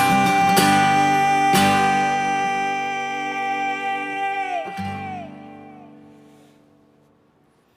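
Acoustic guitar playing the final chords of a song: two strums, the second about one and a half seconds in. That last chord is left to ring and fades away to near silence over the following seconds.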